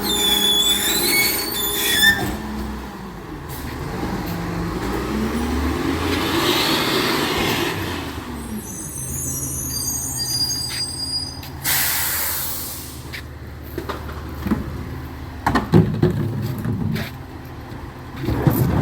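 Recycling truck working: high brake squeals at the start, then its engine revving up and settling back, more squealing, a loud air-brake hiss about twelve seconds in, and a few sharp clanks near the end.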